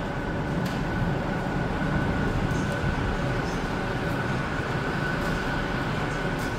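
Yongin EverLine light-rail train approaching the platform: a steady rumble with a faint, steady high-pitched whine.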